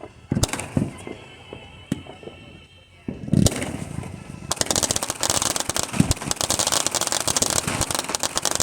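Fireworks going off: a few deep booms, the loudest about three and a half seconds in, then from about four and a half seconds a dense rapid crackling from many small bursts, with another boom in the middle of it.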